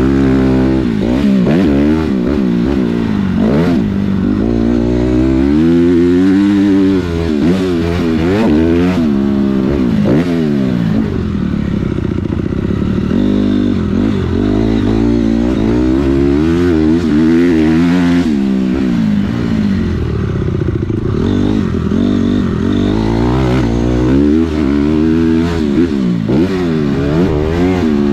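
A 250 motocross dirt bike's engine being ridden hard around a track. Its pitch climbs and drops again and again as the rider opens and closes the throttle and shifts through the gears.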